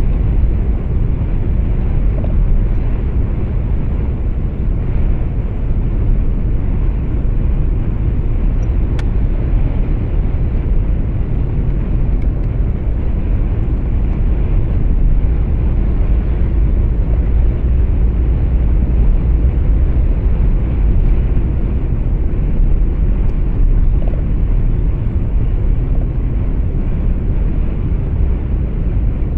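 Steady low rumble of truck engine and tyre noise heard inside the cab while driving, with no breaks or changes.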